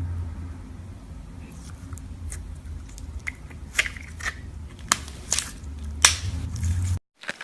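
Slime being squeezed and poked, giving a run of sharp clicking pops as air pockets burst, the loudest about six seconds in, over a low handling rumble. The sound cuts off suddenly about seven seconds in.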